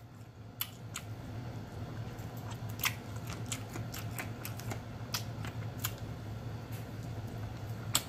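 Close-up eating sounds of meat being gnawed off a smoked chicken bone: scattered sharp clicks and mouth smacks at irregular spacing, the strongest about three seconds in, over a faint steady low hum.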